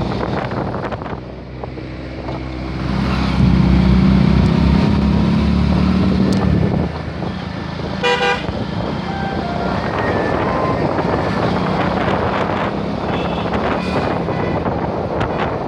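Vehicle engine running in road traffic with wind on the microphone, the engine louder from about three to seven seconds in. A short vehicle horn toot about eight seconds in.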